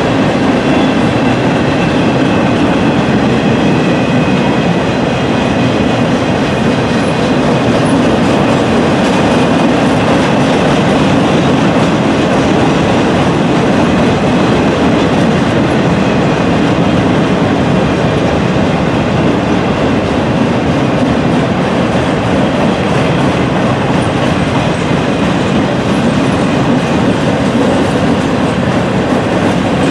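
Freight train cars rolling past close by: a steady, loud rumble and rattle of steel wheels on the rails, with faint high-pitched tones above it.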